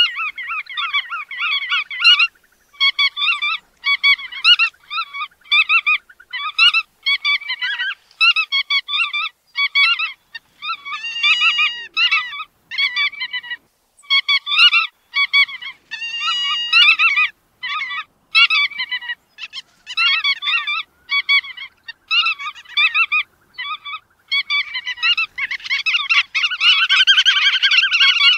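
Bar-tailed godwits calling: a rapid series of short, nasal, honking calls, about two a second, that run together into a dense overlapping chorus near the end.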